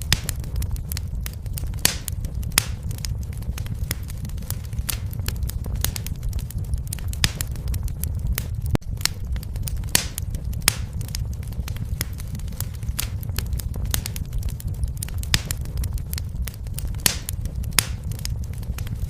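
Fireplace fire crackling: irregular sharp pops, several a second at most, over a steady low rumble of the burning.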